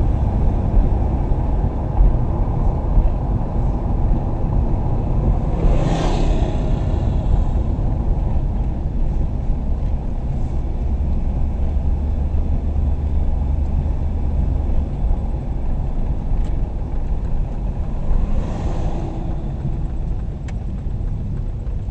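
Van running and rolling along while towing a trailer, heard from inside the cabin: a steady low engine and road rumble, with two brief rushing swells about six seconds in and near the end.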